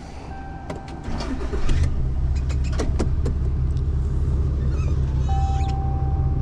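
RAM 2500 pickup's engine starting about a second and a half in, then running steadily with a low rumble. A dashboard warning chime sounds briefly near the start and again near the end, with a few clicks from the cab.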